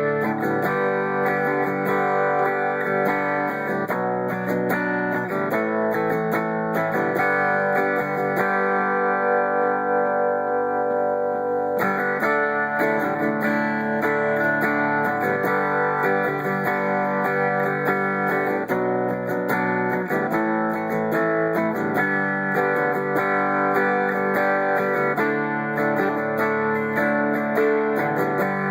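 Instrumental guitar music with no singing: strummed and plucked guitar playing a song's intro at a steady level. The brighter upper sounds drop away for about three seconds near the middle.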